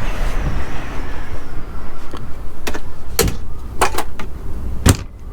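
Strong wind buffeting a motorhome, heard inside the cabin as a steady low rumble, with about six sharp knocks and clicks in the second half from cupboard doors and latches being shut and checked.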